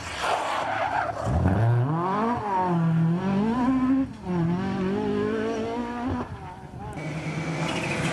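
Rally car engine revving hard as the car accelerates away, its note climbing and dropping back at each gear change, then fading. About seven seconds in it gives way to the steadier engine note of another rally car.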